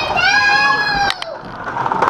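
A child's high-pitched squeal lasting about a second, over the background chatter of children playing.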